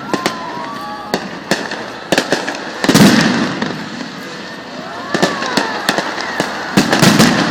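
Aerial fireworks bursting: a run of sharp crackling reports, with a big boom about three seconds in and another near the end.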